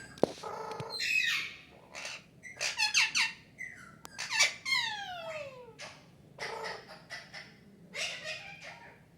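Pet parrot calling: a series of short, shrill squawks and chirps with pauses between them, including a couple of falling whistles about four to five seconds in.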